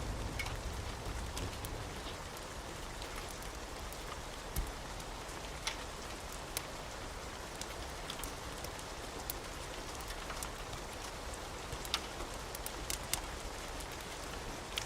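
Steady rain hiss with scattered sharp ticks and clicks, and a low thunder rumble dying away in the first couple of seconds.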